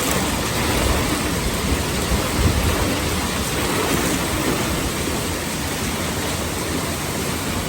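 Hurricane wind and heavy rain: a dense, steady rushing noise with an uneven low rumble of gusts.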